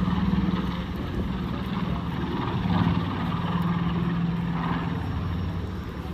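B-25 Mitchell bomber's twin radial piston engines droning steadily with propeller noise as it flies past, swelling slightly twice.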